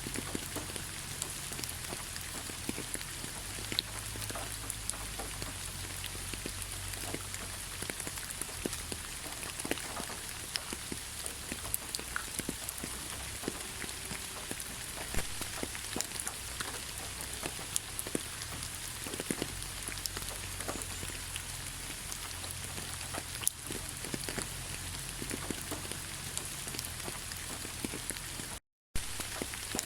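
Heavy rain falling steadily: a dense hiss of rain with many separate close drops striking. Near the end the sound cuts out to silence for a split second, then resumes.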